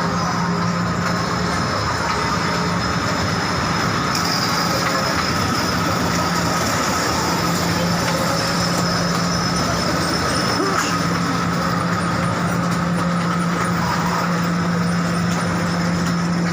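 Train in motion, heard from aboard: a steady rolling rumble with a constant low hum underneath.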